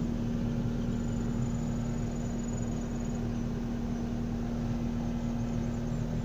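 Komatsu PC70-8 excavator's diesel engine running at a steady idle, an even drone with a constant pitch.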